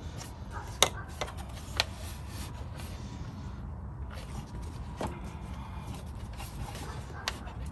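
Sharp, scattered clicks and knocks from plastic engine-bay parts being handled and fitted: an air box housing and its clips. The two loudest come about a second apart near the start, and a few fainter ones follow later.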